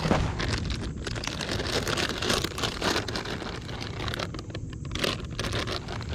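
Footsteps crunching and crackling through dry brush and creek-bank gravel, a dense irregular run of small snaps and scrapes.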